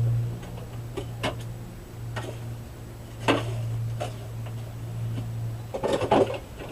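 Steel sword blade being moved in a coal forge, the coals clinking and knocking against it in scattered clicks, with a louder cluster of knocks near the end, over a steady low hum.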